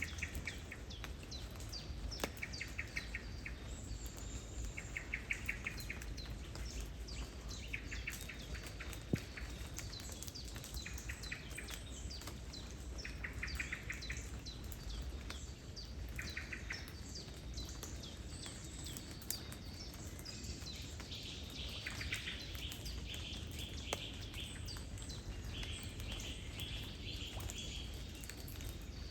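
A songbird repeating a short, rapid trill every two to three seconds, with higher chirping taking over in the second half, over light rain pattering and a steady low rumble of wind or flowing water.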